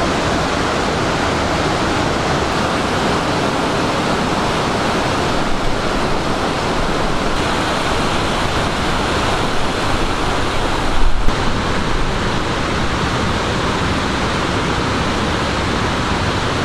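Rushing water of a waterfall: a loud, steady noise, with a brief knock about eleven seconds in.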